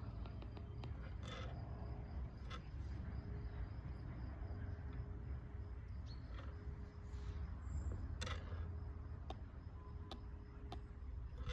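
Outdoor ambience: a steady low rumble with scattered small clicks and taps, a faint high insect-like trill, and a couple of brief high chirps.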